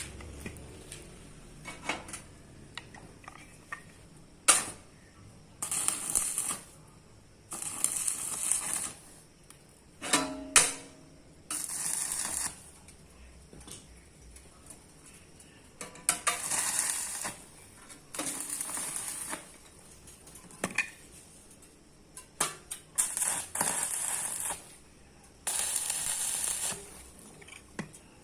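Short bursts of welding crackle, about ten separate tacks of up to a second and a half each, as steel plate is tacked together. Sharp metallic clinks and taps fall between the bursts, one ringing briefly about ten seconds in.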